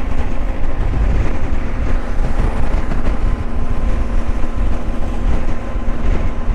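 Wind rushing and buffeting over the microphone at highway speed, over the steady drone of a Benelli TRK 502X's parallel-twin engine cruising.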